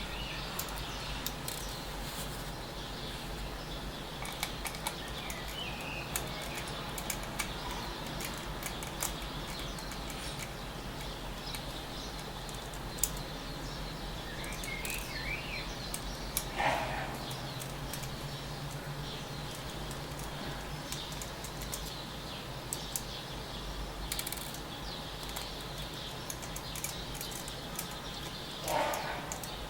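Scattered small clicks and ticks of a Samsung Galaxy S3 smartphone being taken apart by hand, over steady background noise, with a few bird chirps.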